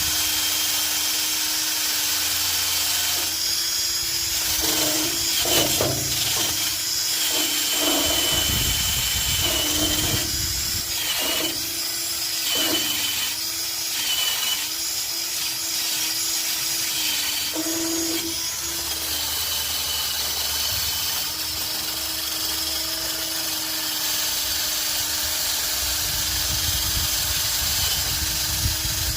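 Hand-held power tool running steadily on rusty exhaust pipe metal, cleaning it back for welding: a constant motor whine over a scraping hiss, with a few brief dips in pitch in the first half as the tool bears on the metal.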